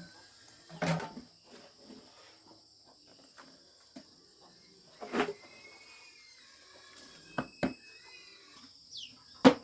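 A few sharp knocks and clatters, the loudest near the end, over a steady high insect drone, with faint bird chirps in the second half.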